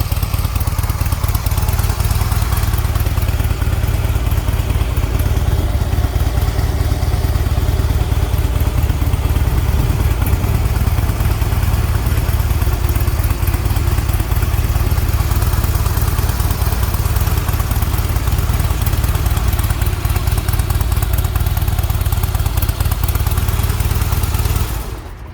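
Harley-Davidson CVO Softail Springer's air-cooled V-twin, the Twin Cam 110, idling steadily through its stock exhaust. The sound cuts off near the end.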